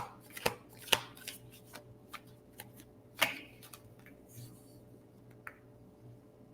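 Tarot cards being handled and shuffled: a run of quick, light card clicks and flicks for about the first three seconds, then a few scattered ones.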